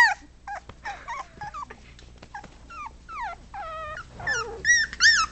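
Four-week-old puppies whimpering and yipping: a string of short, high cries that slide down in pitch, some overlapping, getting louder toward the end.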